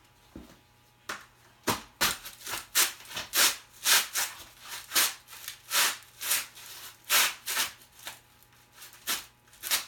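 A run of short, irregular rubbing or scuffing sounds, roughly two a second, over a low steady hum.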